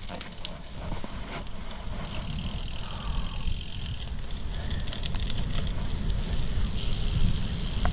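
Merida Silex gravel bike climbing on a gravel track: tyres rolling and crunching over stones, with steady wind rumble on the camera microphone and scattered small clicks and knocks from the bike.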